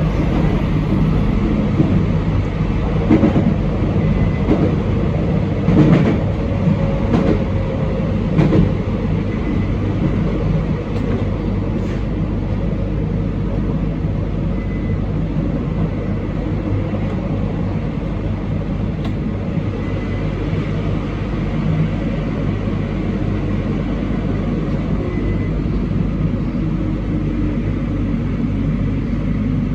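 Train running along the track, heard from inside the car with a steady low rumble. Several sharp knocks in the first ten seconds are wheels passing over rail joints.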